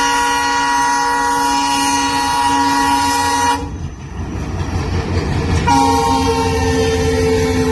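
Railway locomotive air horn sounding a long blast, stopping about three and a half seconds in, then a second long blast starting about two seconds later. Under it, the low rumble of the train running on the track.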